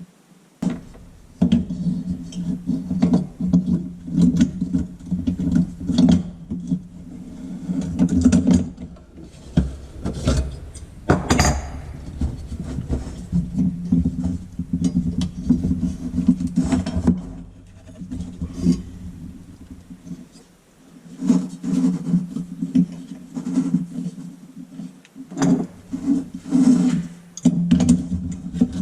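Metal parts of an old Coleman lantern being handled and worked by hand during disassembly: irregular clinks, knocks and scraping rubs.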